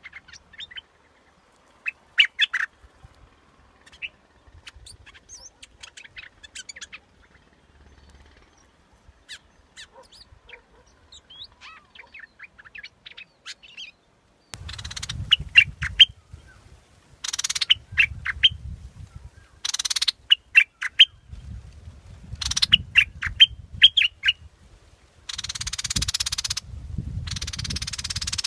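Bulbul song played as a decoy call: short whistled and chirping phrases, sparse and quiet at first, then from about halfway louder bursts of phrases, with a rumble and hiss between them.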